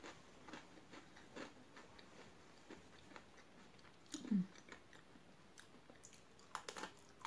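Close-up chewing of crunchy Pocky biscuit sticks, with soft crunches every second or so. There is a short falling hum from the eater about four seconds in, then a crisp bite into a bundle of sticks near the end.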